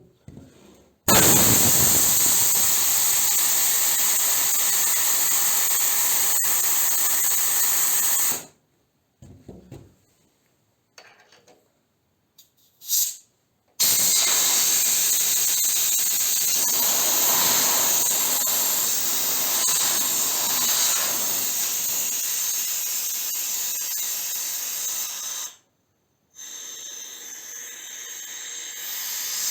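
Compressed air rushing out of an opened outlet on a compressor's air system: a loud hiss that starts suddenly about a second in and cuts off after about seven seconds, a few small clicks, then a second long blast of about twelve seconds that also cuts off abruptly, and a quieter hiss near the end.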